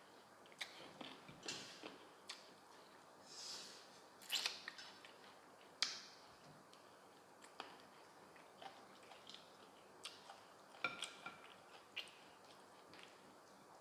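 Close-up mouth sounds of eating braised chicken feet: irregular wet smacks, sucks and small clicks as skin is chewed and sucked off the bones, with one longer sucking hiss about three and a half seconds in.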